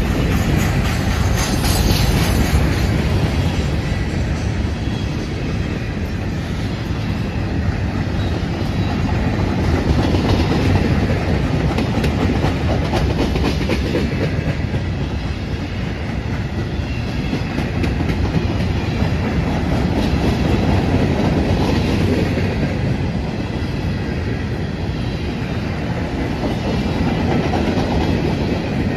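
Covered hopper cars of a freight grain train rolling past close by: a steady rumble of steel wheels on rail, with a constant run of clicks, swelling a little as each car goes by.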